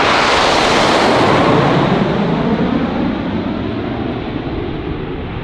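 BAE Hawk jets flying low overhead in formation: a loud jet roar that swells within the first second, then slowly fades as they pass, its pitch sliding down as they go by.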